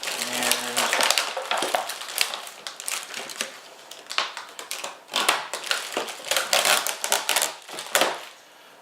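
Packaging crinkling and rustling in quick, irregular crackles as small parts are unpacked by hand. It dies down near the end.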